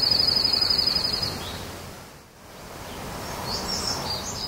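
A songbird's rapid trill on one high pitch, ending about a second and a half in. After a short lull, a few high chirping bird notes come near the end, over a steady outdoor background hiss.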